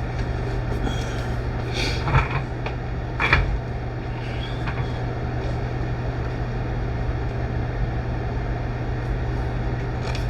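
A steady low background hum runs throughout, with two brief handling noises about two and three seconds in.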